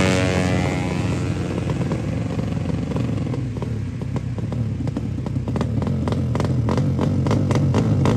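Drag-racing motorcycle engine at high revs, its pitch peaking at the start and then falling away over the first few seconds. A steady low engine hum remains, with a run of sharp, evenly spaced ticks that grow denser from about halfway on.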